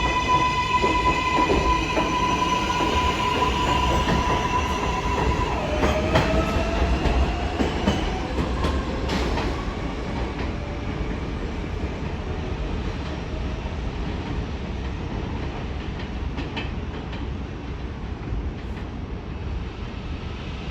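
R188 subway train pulling out along elevated track: a steady electric whine from its propulsion, then a rising whine about six seconds in as it picks up speed, with wheel clatter over the rail joints. The rumble slowly fades as the train draws away.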